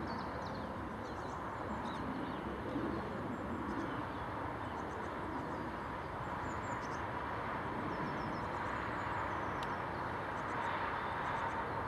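Distant jet airliner engines: a steady wash of noise with a faint whine running through it, growing slightly louder near the end, while small birds chirp now and then.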